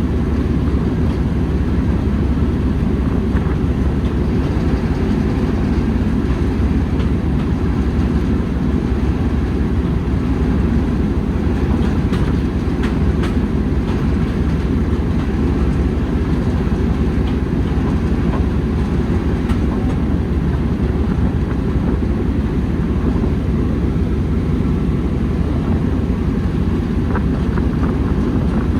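Railway train running, a steady low rumble with a few faint clicks.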